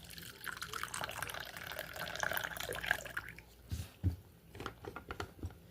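Coffee being poured into a cup for about three seconds, followed by a couple of soft low knocks.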